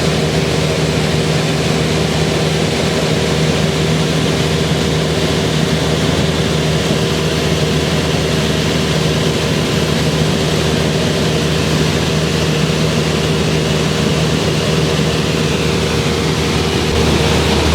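Cessna 172R's four-cylinder Lycoming engine and propeller droning steadily in flight, with a wash of airflow noise. The low hum grows a little louder near the end.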